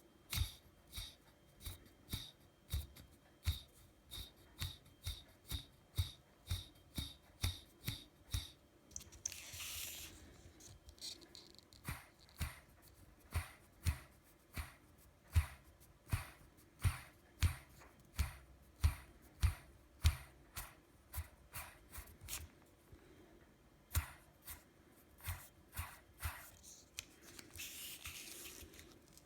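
Brushless FPV drone motors (T-Motor F40 Pro 2400kv) flicked round by hand over and over, each spin a short sharp click about twice a second, with a faint rattle and grinding from bad bearings. Twice, about ten seconds in and near the end, a longer gritty whir.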